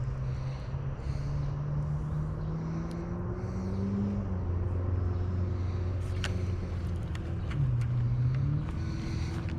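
Car engine running under way, its pitch rising steadily for about four seconds, then dropping, with another dip and recovery near the end, over steady road noise and a few light clicks.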